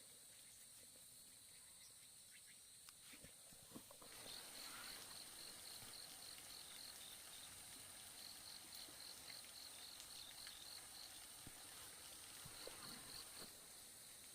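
Faint insect chorus: a steady high buzz with bouts of rapid, evenly repeated high chirps, about four a second, in three runs starting about four seconds in. A few soft knocks come just before the chirping starts.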